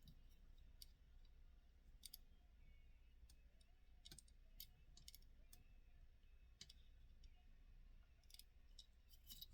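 Faint, irregular light clicks and taps of a small die-cast metal model car being handled and turned over in the hands, over a quiet room hum.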